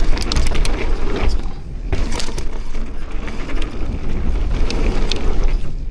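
Mountain bike riding down a dirt trail: tyre roll and scattered rattling clicks from the bike, with wind buffeting the microphone as a steady low rumble.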